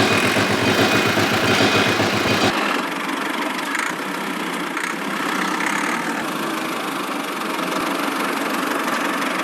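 An engine running at idle with a rhythmic low throb. About two and a half seconds in, the sound changes abruptly: the deep throb drops away and a quieter, even running sound continues.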